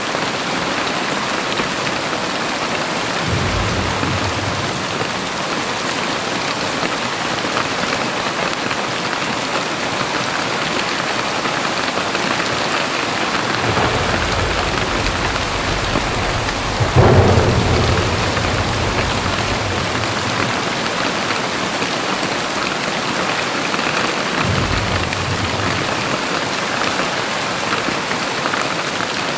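Very heavy rain pouring steadily, with low rumbles of thunder rolling in several times and a sudden louder clap of thunder a little past halfway.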